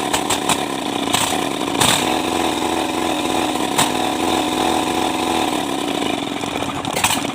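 Kubota Z751 two-cylinder diesel engine running steadily, with a few sharp clicks heard over it.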